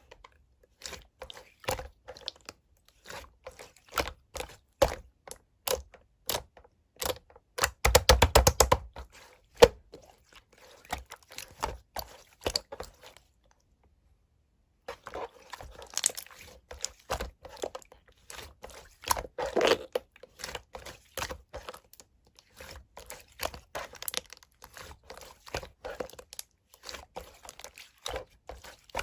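Slime being squeezed and poked by hand, giving a steady stream of sticky clicks and pops. About eight seconds in there is a fast, loud burst of crackling, and the sound pauses for a moment near the middle.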